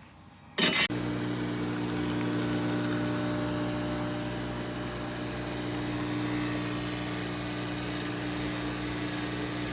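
Café Bellissimo espresso machine's steam wand frothing milk: a sharp burst of steam about half a second in, then steady hiss over the machine's low hum, cutting off abruptly at the end.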